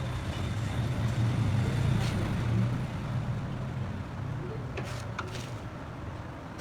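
A motor vehicle's engine runs with a steady low hum, swelling a little in the first half. A few sharp metallic clicks come about five seconds in.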